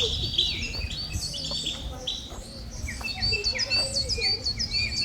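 A chorus of small birds chirping: many short, sharp chirps repeated rapidly and overlapping, thinning briefly around the middle. A low rumble runs underneath.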